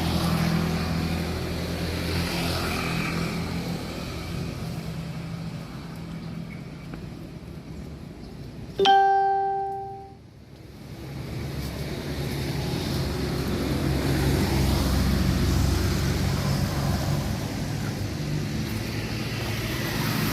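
Steady low hum of a running motor vehicle engine. About nine seconds in, a single bright ringing note sounds suddenly and fades away over about a second and a half.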